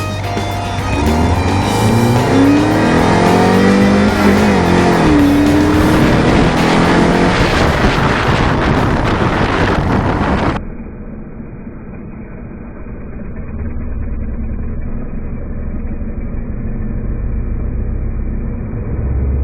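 Rock music with electric guitar over a car engine revving up over a few seconds and dropping back. About ten seconds in the sound cuts abruptly to a muffled recording of the 1988 Ford Escort GT's four-cylinder engine running steadily.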